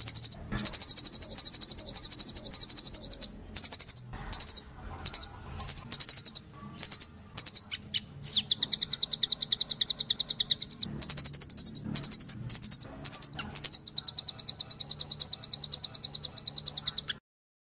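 Nuthatch (rambatan Doraemon) singing: fast, high-pitched trills of rapidly repeated notes in long runs of two to three seconds, with shorter broken phrases between them. The song cuts off suddenly near the end.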